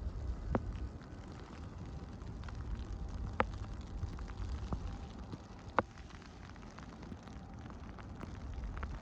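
Blizzard wind rumbling on the microphone with a crackly patter of blowing snow, broken by three sharp ticks, the loudest about six seconds in.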